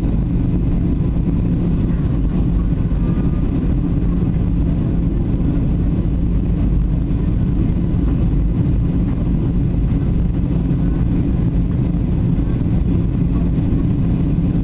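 Steady drone of a Boeing 737's engines and airflow, heard from inside the cabin: a constant low rumble with a steady hum, unchanging throughout.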